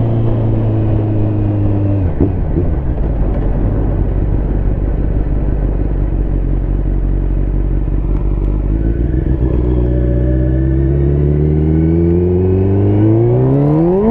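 Liter-class sport bike engine running at speed. The revs drop about two seconds in, then climb steadily from about eight seconds and shoot up sharply near the end as the rear tire spins on the wet road.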